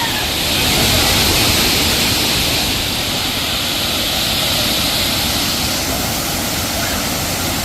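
Steady rushing roar of water falling at a waterfall, a little louder about a second in.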